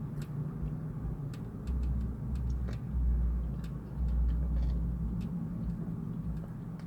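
Deep bass from a nearby car stereo, heard inside a parked car as a low rumble that swells and fades in roughly one-second pulses, with scattered light clicks and taps.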